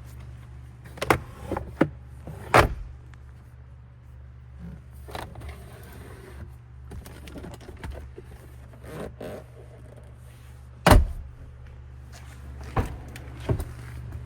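Sharp clicks and knocks from handling a pickup truck, about seven in all: a cluster in the first few seconds, one near the middle and two near the end, over a steady low hum.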